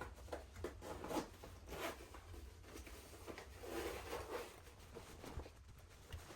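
Irregular rustling and scraping handling sounds in a series of short strokes, the loudest about a second in and a cluster near four seconds in.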